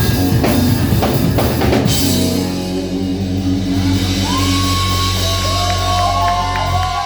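Live rock band finishing a song: drum kit hitting with guitars, then, about two seconds in, a final chord held and ringing with high wavering tones over it, cut off at the very end.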